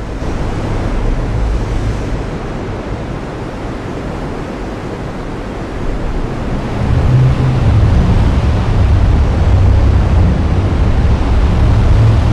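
Heavy rain hissing steadily, with a low rumble of thunder building about halfway through and rolling on to the end.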